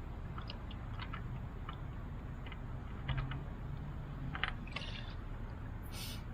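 Light, irregular clicks and taps as a loosened motorcycle oil filter is spun off by hand, over a low steady background, with a short hiss near the end.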